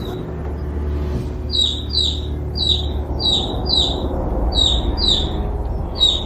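A chick peeping: a run of short, high, falling chirps, mostly in quick pairs, starting about a second and a half in, over a low steady rumble.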